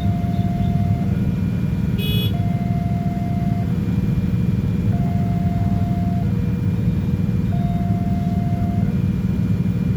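Level-crossing warning alarm sounding over a heavy, steady rumble of a passing train. The alarm alternates between a higher and a lower tone, each held about a second and a half. A brief high-pitched squeal comes about two seconds in.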